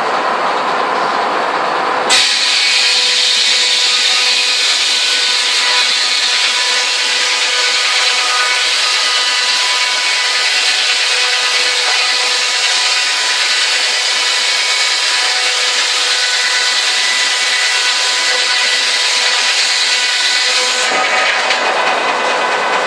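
Sawmill breaking down saw running with a steady mechanical whine. About two seconds in it bites into the log with a sudden loud rasp of cutting that holds steady through the long cut, then drops back to the saw running free near the end.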